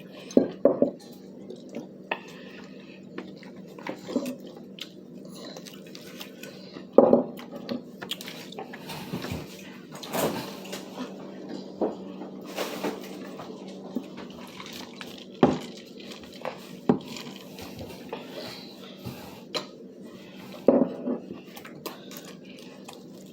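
Irregular clatter of dishes, food containers and utensils being handled at a meal of crispy chicken: scattered clicks and knocks, the sharpest about half a second, 7, 15 and 21 seconds in, over a steady low hum.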